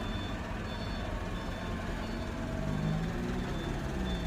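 Heavy truck's diesel engine running on a steep climb, its note rising partway through, while a reversing alarm gives short repeated high beeps.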